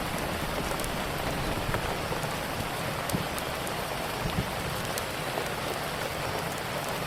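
Steady rain falling, with scattered small sharp crackles from a wood fire.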